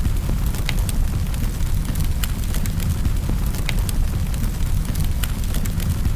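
Wood fire burning in a fireplace, crackling: sharp pops and snaps come irregularly, a few a second, over a steady low rumble.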